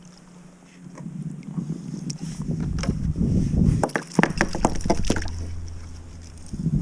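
A fish flapping loose on the deck of a plastic kayak, a quick run of slaps and knocks about three seconds in.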